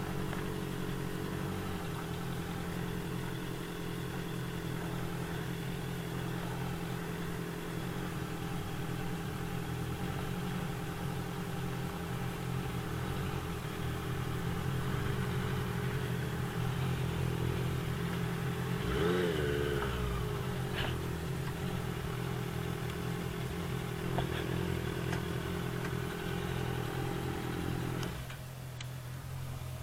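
Motorcycle engine running steadily, with a brief rise and fall in pitch about two-thirds of the way through; near the end the higher part of the sound drops away, leaving a lower steady hum.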